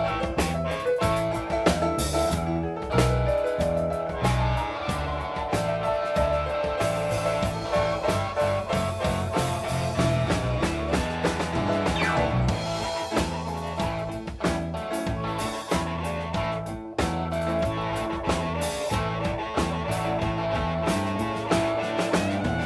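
Live blues band playing an instrumental passage: electric guitar over bass and drum kit.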